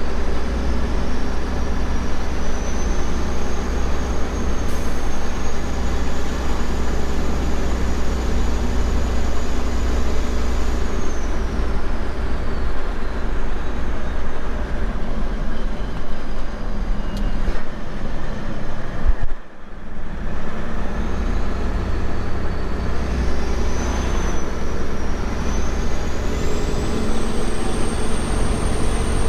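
Semi truck's diesel engine and road noise heard from inside the cab while driving, a steady drone with a high whine that falls and later rises again. The sound briefly cuts out about two-thirds of the way through.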